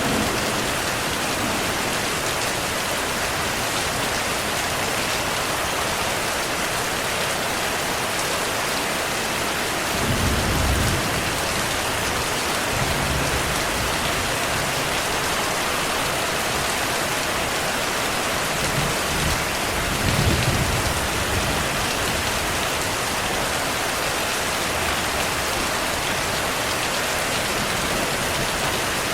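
Heavy steady rainfall hissing, with distant thunder rumbling low about a third of the way in and again about two thirds of the way in.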